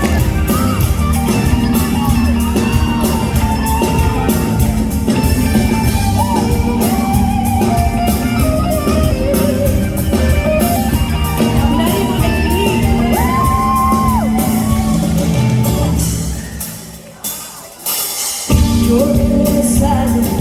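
Female vocalist singing live over a full band, with shouts from the audience. Near the end the music drops away for about two seconds, then the band comes back in at full level.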